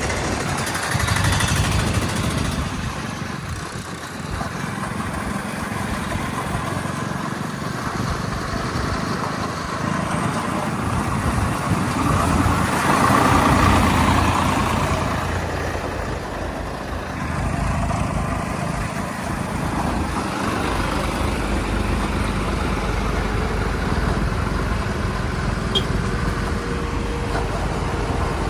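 Vehicle engines running steadily, swelling louder for a couple of seconds near the middle.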